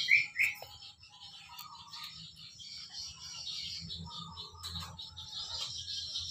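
Small birds chirping: a quick run of sharp, evenly spaced chirps, about three a second, that stops about half a second in, then steady high twittering.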